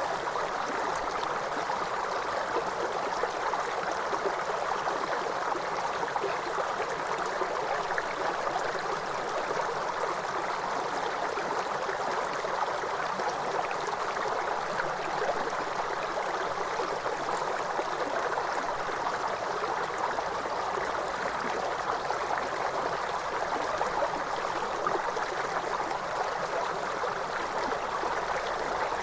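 Waterfall: water cascading in a steady, even rush without letup.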